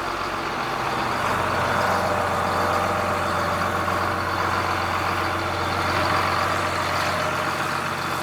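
John Deere 4755 tractor's turbocharged six-cylinder diesel running steadily, soon after firing right up from cold after sitting.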